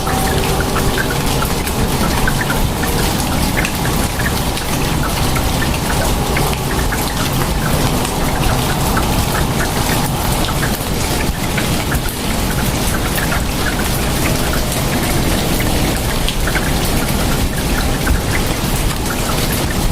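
Steady heavy rain, with many individual drops spattering close by over a dense, even hiss.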